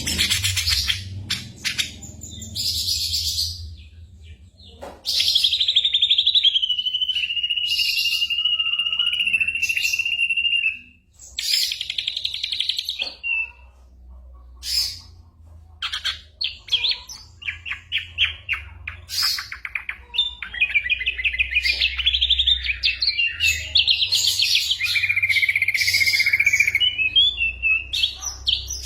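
Ashy drongo singing a varied song of mimicked bird calls: short sharp notes, a long buzzing trill held for about five seconds from five seconds in, then quick chattering series and a warbling trill. A faint low hum runs underneath.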